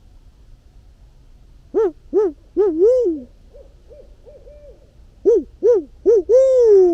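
Barred owl 'who-cooks-for-you' hooting: two loud phrases of four hoots each, the last hoot of each phrase drawn out and falling in pitch. Fainter, higher hoots from another owl come in between the two phrases.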